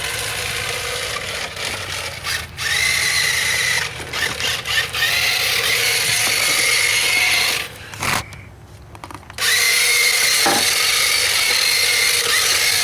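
Electric motor of an RC drift car whining under throttle, in spells with short breaks, falling away for about a second and a half roughly two-thirds through before running steadily again.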